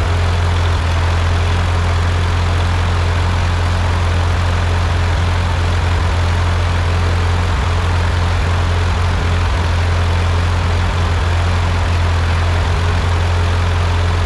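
Rebuilt Ford 8N tractor's four-cylinder flathead engine running steadily at an even speed, with a constant low hum.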